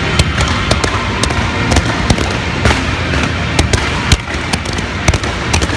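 Fireworks display: a rapid, irregular run of sharp bangs and crackles over a continuous rumble, with one especially loud bang about four seconds in.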